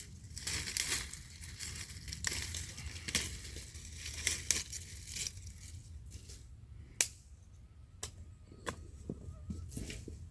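Dry sticks and twigs being handled and snapped: rustling and crackling for the first few seconds, then scattered sharp snaps, the loudest about seven seconds in.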